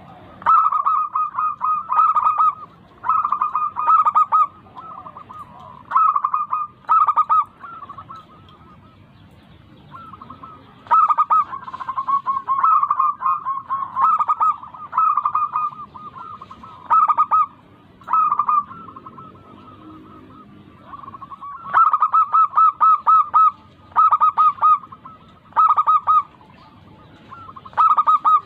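Zebra dove (perkutut) singing: repeated phrases of rapid staccato cooing notes, each phrase about a second long, with short pauses between them.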